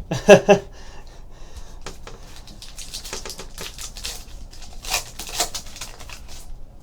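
Trading-card packs and cards being handled, with crinkling wrapper and clicking cards. There are two sharp, louder crackles about half a second in and a denser run of crackling later, loudest around five seconds in.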